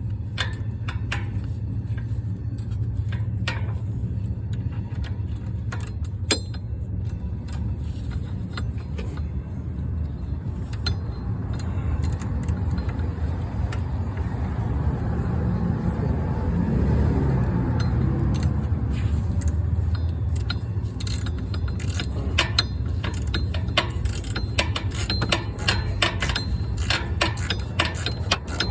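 Scattered metallic clicks and clinks of hand tools and a socket ratchet working the starter mounting bolts, coming more often in the last third. Under them runs a steady low rumble that swells briefly midway.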